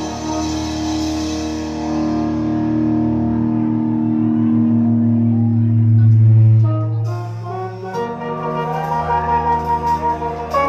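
Live band music played over a PA: a long held, swelling chord breaks off about two-thirds of the way through, and a new instrumental passage with a gliding melody line begins.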